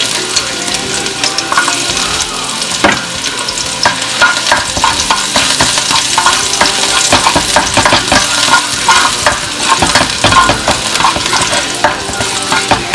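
Minced garlic sizzling in hot oil in a nonstick wok, stirred with a spatula that scrapes and taps against the pan in quick, irregular strokes, more often from about a second and a half in.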